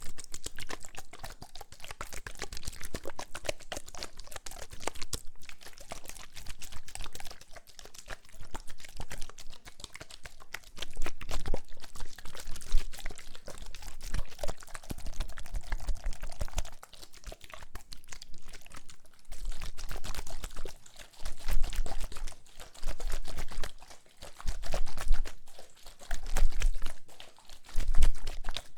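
Close-miked ASMR trigger sounds: dense, fine crackling and clicking close to the microphone, joined in the second half by soft low thumps every second or two.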